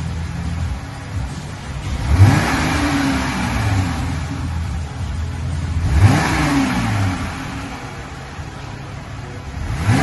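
2020 Jeep Gladiator's 3.6-litre V6 running through its stock exhaust with factory muffler and resonator. It idles, then is revved twice, about two and six seconds in; each rev climbs and settles back to idle. Another rev starts right at the end.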